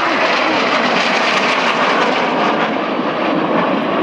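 Patrouille Suisse F-5E Tiger II jets flying by, their twin J85 turbojets making a loud, steady jet engine noise.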